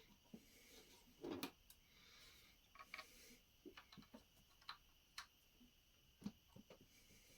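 Faint, scattered clicks and light knocks of plastic Lego bricks being handled and pressed into place, about a dozen irregular taps with the loudest cluster about a second in.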